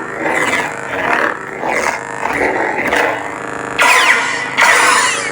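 Lightsaber soundboard playing the Hurrikaine sound font: a steady electronic hum with sweeping swing sounds that rise and fall in pitch, then louder swooshes near the end.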